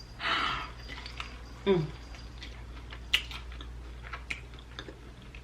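Small handling and eating sounds: a short breathy sound at the start, a brief hummed "mm" about two seconds in, then scattered light clicks and taps.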